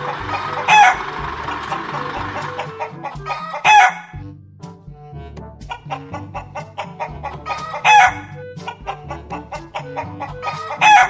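A chicken calling four times, about every three seconds: short, loud, pitched squawks over a bouncy background music track.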